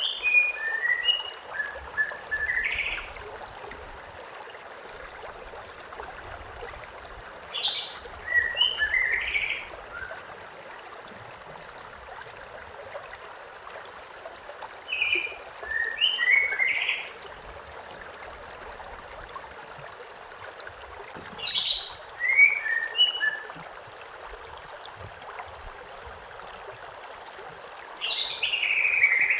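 A songbird singing the same short phrase of quick, high, mostly falling notes about every seven seconds, five times, over the steady rush of a river or stream.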